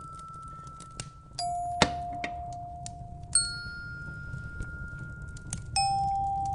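Slow bell chimes, three single struck notes at different pitches about two seconds apart, each ringing on and fading. Under them a wood fire crackles with scattered small pops and a steady low rumble, with one sharper pop about two seconds in.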